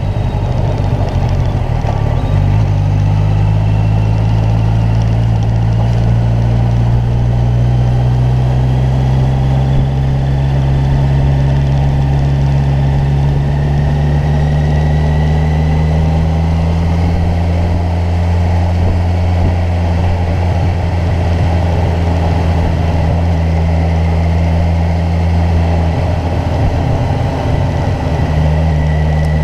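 Kawasaki Ninja 1000's inline-four engine running at a steady cruise, its pitch drifting only slightly, with a brief change in note near the end.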